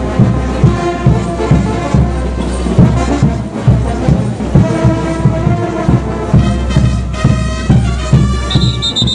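Brass band playing Diablada dance music: sustained brass lines over a steady bass drum beat, about three beats a second. A high, steady whistle tone cuts in near the end.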